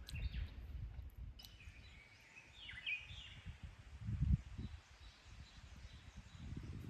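A bird chirping briefly a second or two in, over an irregular low rumble.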